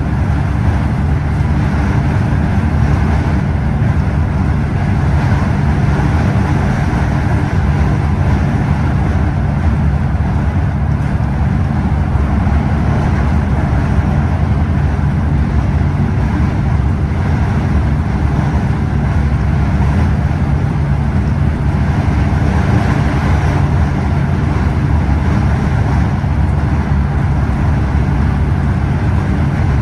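Scania OmniExpress express coach's engine running steadily under way, a constant low hum over road and tyre noise.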